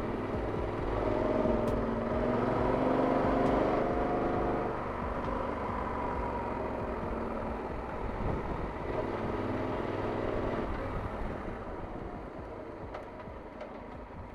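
Yamaha Super Ténéré's parallel-twin engine running on the road with wind rush, the engine note swelling twice under throttle, then easing off near the end.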